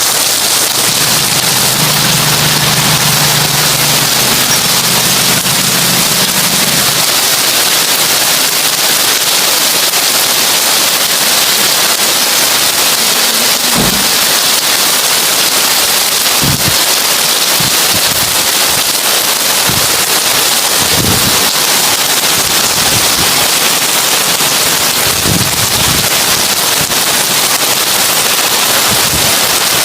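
Heavy rain on a tin roof: a loud, steady, dense crackling patter of drops on the metal, with a few short low thuds in the second half.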